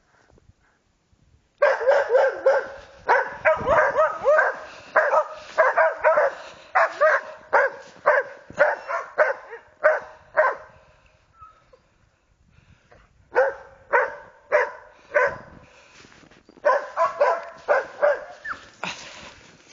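West Siberian Laika hunting dogs barking rapidly and repeatedly, as laikas do when holding a marten at bay. The barking starts about two seconds in, pauses for a few seconds near the middle, then starts again.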